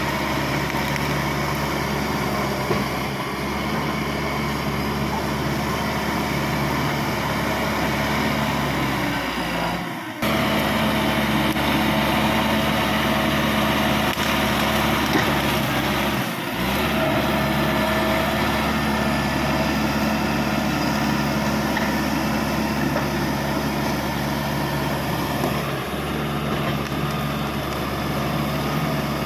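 A crawler bulldozer's diesel engine running steadily. It breaks off briefly about ten seconds in and again about sixteen seconds in, and runs a little louder after the first break.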